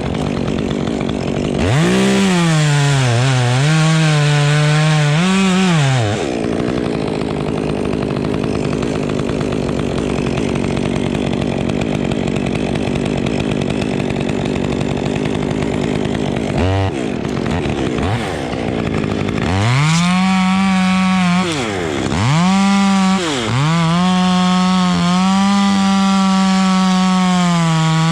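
Two-stroke chainsaw revving to full throttle and dropping back several times. In the middle it holds a long rough stretch, the engine under load in a cut.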